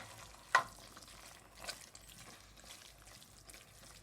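Spinach and chicken in tomato sauce cooking quietly in the pot, a faint steady simmer, with a sharp knock about half a second in and a softer one a second later.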